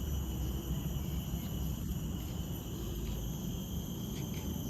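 Steady, shrill chorus of tropical insects, holding several high tones without a break, over a low rumble of wind on the microphone.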